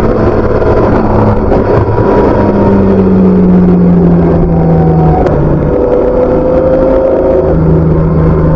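BMW K1600B's inline six-cylinder engine running through its stock exhaust on the move, its pitch easing down slowly and then dropping suddenly about five seconds in before holding steady.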